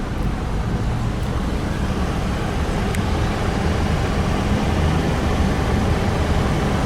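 Steady low vehicle rumble, like road traffic or an idling engine heard outdoors, with a faint click about three seconds in.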